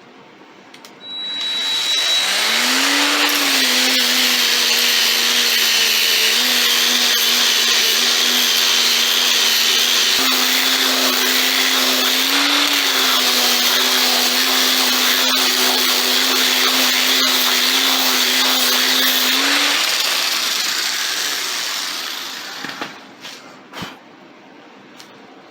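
Handheld power grinder running for about twenty seconds, grinding down a cured concrete repair patch to test its bond. The motor pitch wavers slightly under load, then the grinder spins down near the end.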